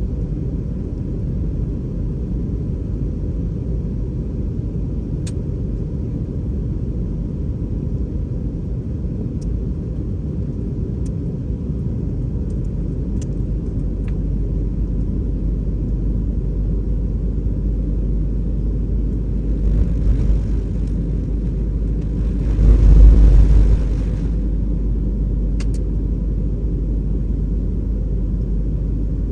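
Airbus A320 airliner in flight, heard as a steady deep rumble of engine and airflow noise. About twenty-two seconds in, a louder surge of rushing noise swells for a second or two and then settles back.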